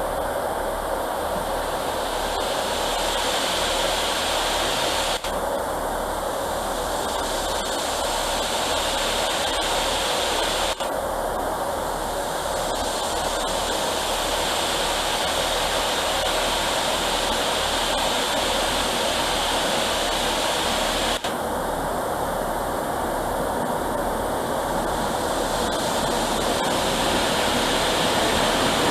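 Steady rushing noise, broken abruptly three times.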